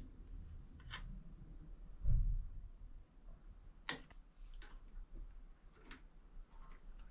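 A few scattered light clicks and one dull low knock, about two seconds in: small parts being handled and fitted at the bench.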